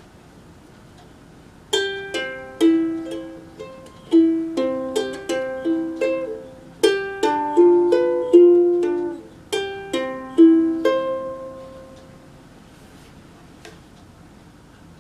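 Ukulele played: a short phrase of plucked notes and chords starting about two seconds in, each note ringing and fading, the last one dying away about ten seconds later.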